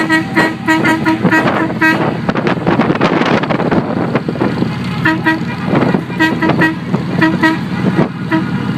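A vehicle horn tooting in quick runs of short beeps, about three a second, twice, over the continuous low rumble of motorcycle engines.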